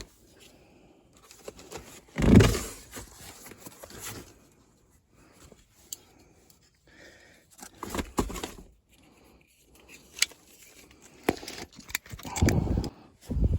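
Intermittent handling noises from work on a furnace: a heavy thump about two seconds in, then scattered clicks, light rattling and rubbing, with further thumps around the middle and near the end.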